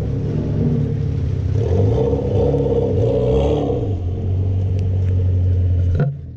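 Car engine running under throttle: its pitch climbs and swells in the first half, then holds steady, and the sound cuts off abruptly near the end.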